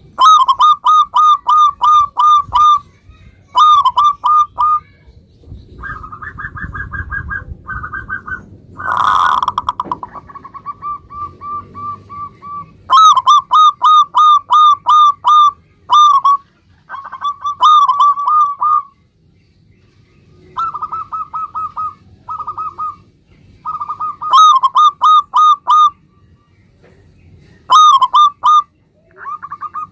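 Zebra dove (perkutut) cooing: phrases of quick staccato coo notes, a few seconds each, repeated over and over with short pauses between them. A brief noisy burst comes about nine seconds in.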